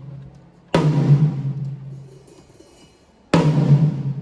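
A drum of a drum kit struck twice, single hits about two and a half seconds apart, each ringing out and fading over a couple of seconds: drums being checked one hit at a time during a sound check.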